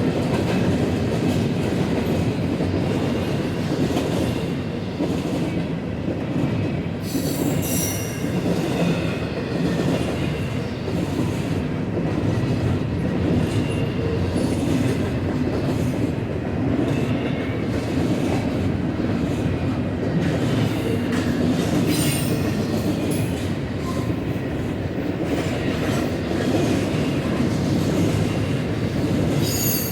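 Empty freight cars rolling past on steel rails: a steady wheel rumble, with brief high-pitched wheel squeals about seven seconds in, around twenty-two seconds in, and again near the end.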